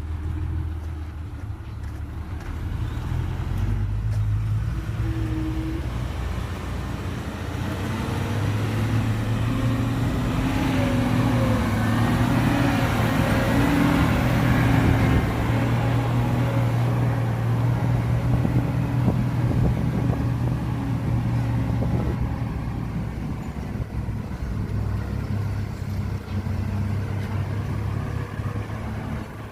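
Heavy diesel earthmoving machinery running steadily, swelling louder from about ten seconds in and easing back after about seventeen seconds.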